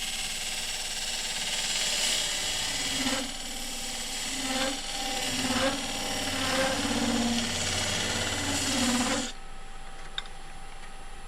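Wood lathe spinning a poplar blank while a turning tool cuts into it to start the hollowing, a rough scraping hiss that surges and eases unevenly. About nine seconds in the tool comes off the wood and only the lathe's steady motor hum is left.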